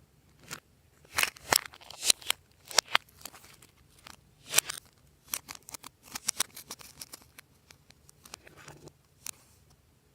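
Glossy slime being worked by hand, with irregular sharp clicks and pops as it is pressed and stretched, thinning out near the end.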